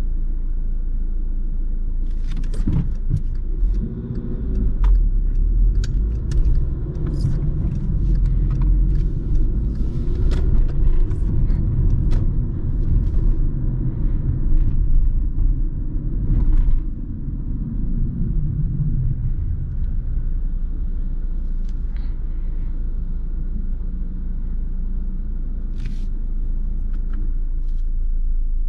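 Truck assembly-line factory noise: a steady low rumble and hum with many scattered metallic clicks and knocks. It is busier and louder for the first half or so, then settles to a steadier hum with only an occasional click.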